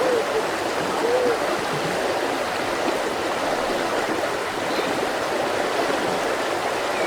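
Mountain river flowing steadily over rocks, a full rushing of water with a few short bubbling gurgles in the first second or so.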